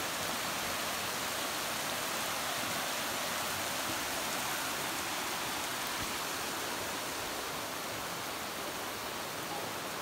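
Steady, even rush of water outdoors, with no single strokes or drops standing out.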